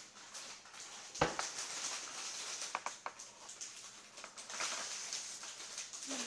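Kitchen handling noises as chocolate is spread on marshmallows: irregular rustling and scraping with small clicks, and one sharp knock about a second in.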